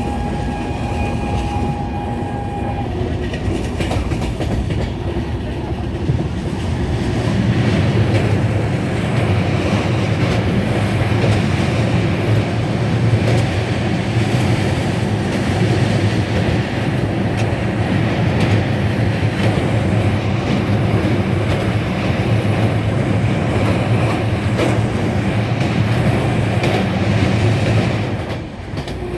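Indian express train running at speed over a railway bridge: a steady loud rumble with rapid clickety-clack of wheels over the rails. The rumble grows heavier about seven seconds in and eases just before the end.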